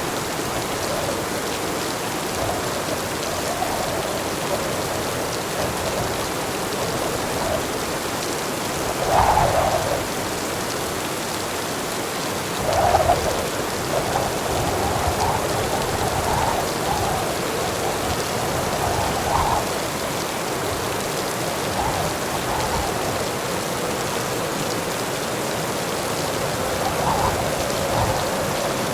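Heavy rain falling steadily, with two brief louder surges about nine and thirteen seconds in.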